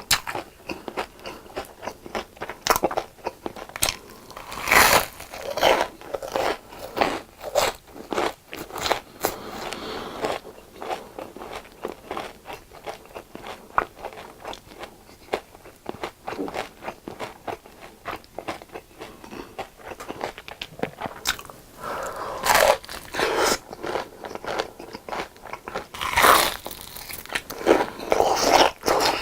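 Crispy deep-fried food being bitten and chewed close to the microphone: a dense run of crackling crunches, with louder bites about five seconds in and twice more near the end.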